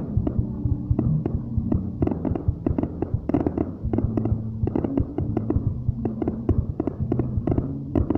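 Fireworks going off in rapid succession, several sharp bangs and cracks a second, over a steady low hum.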